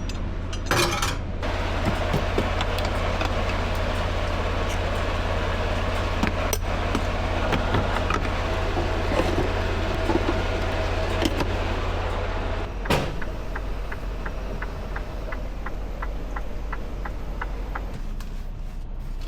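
Semi-truck running, heard from inside the cab: a steady low rumble and road or engine noise. About two-thirds in a sharp click sounds, the low hum drops away, and a steady ticking of about three clicks a second follows for several seconds.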